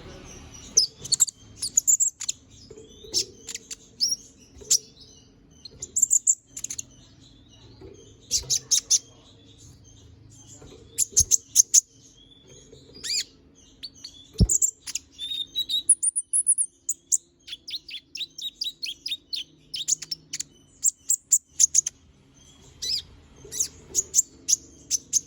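Konin (kolibri ninja sunbird) singing busily: clusters of sharp, high chirps and quick trilled runs, with a faster run of evenly spaced notes past the middle. Two sharp knocks, and a faint low hum underneath.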